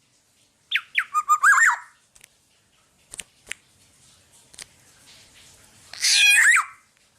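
Black-naped oriole (kepodang) calling. About a second in comes a whistled phrase: a few falling fluty notes, then a quick run of notes. About six seconds in comes a harsh, nasal squawk, with a few faint clicks in between.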